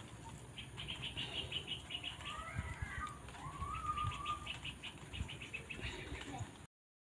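Birds outdoors: two bouts of rapid, evenly spaced pulsing, several a second, with a few short chirps between them, over a low rumble with occasional thumps. The sound cuts off suddenly near the end.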